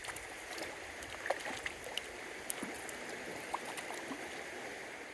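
Small upland stream running over stones in a steady rushing hiss, with scattered faint ticks and drips.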